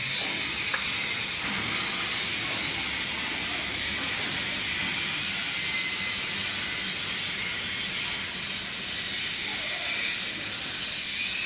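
Welding arc of a longitudinal seam welder running steadily on a stainless steel seam, an even hiss with no crackle.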